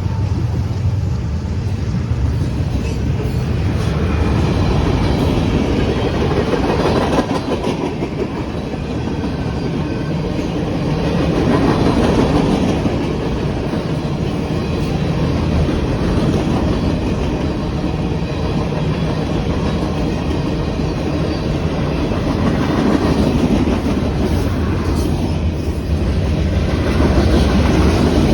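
Freight train passing close by: the cars rolling over the rails with a steady rumble and wheel clatter.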